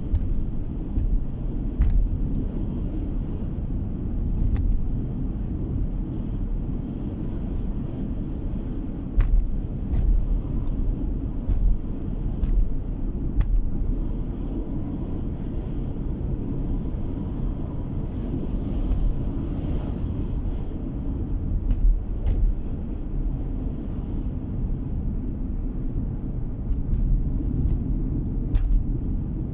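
A car driving, heard from inside the cabin: steady low road and engine rumble, with occasional short sharp clicks or knocks scattered irregularly through it.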